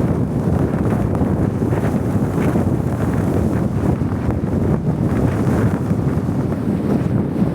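Blizzard wind blowing hard across the microphone: a steady, loud low rushing made of many quick gusts and buffets.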